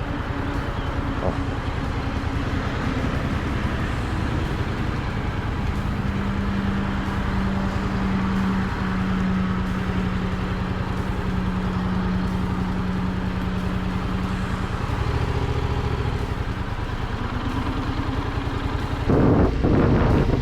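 Yamaha MT-07 parallel-twin engine running while the bike is ridden, its note holding steady through the middle and changing about fifteen seconds in. A louder rush of noise comes near the end.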